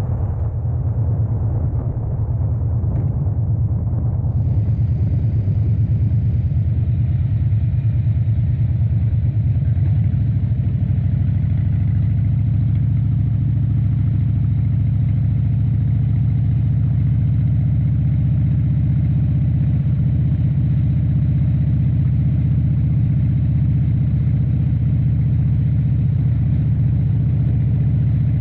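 A 2013 Harley-Davidson Dyna Wide Glide's 103-cubic-inch V-twin engine running at a steady pace, with road noise.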